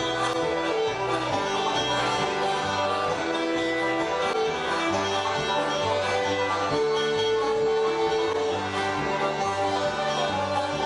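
Live bluegrass band playing an instrumental breakdown: banjo picking over guitar, fiddle and a double bass stepping through its notes about twice a second.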